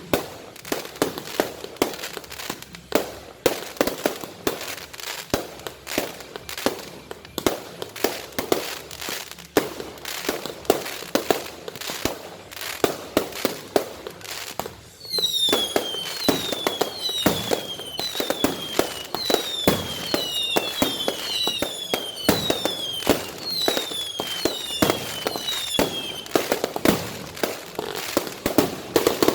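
Fireworks going off in rapid, near-continuous bangs and crackles. About halfway through, a run of whistling fireworks joins in for about ten seconds: many overlapping shrill whistles, each falling in pitch.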